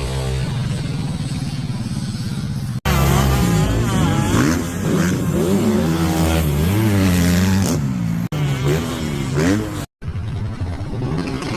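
Dirt-track racing engines revving, their pitch climbing and falling as they accelerate and back off, in several short clips that cut off abruptly.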